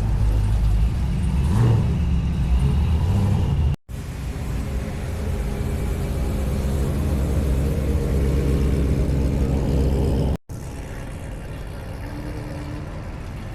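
A vehicle engine running loud with a deep rumble, heard in three clips with abrupt cuts between them; in the middle clip the engine note climbs slowly as it revs up.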